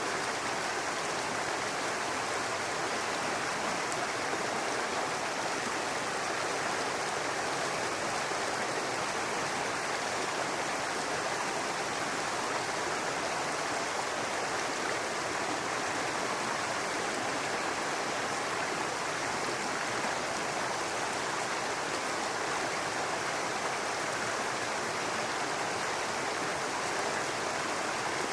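Small brook babbling over rocks: a steady, even rush of running water.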